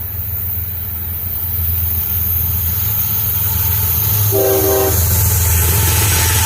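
Diesel freight locomotive approaching with a steady low engine rumble that grows louder, and a short blast of its multi-note air horn about four seconds in.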